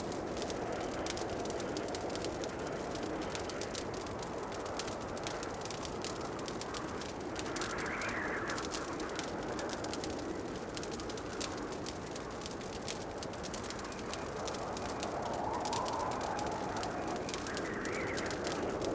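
Wood fire crackling in a fireplace: a steady run of small pops and snaps over a low rush of flame. A few soft swells rise and fade, about eight seconds in and near the end.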